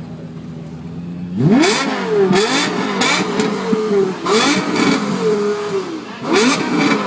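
Lexus LFA's 4.8-litre V10 idling steadily. About a second and a half in, it is revved hard in a quick series of free-revving blips, the pitch shooting up and falling back between each, and it is still being revved at the end.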